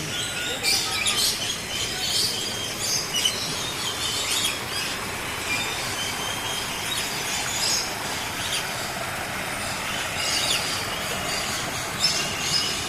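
Many birds calling at once: a dense chorus of short, high chirps and squawks, some sweeping in pitch, over a steady background hiss.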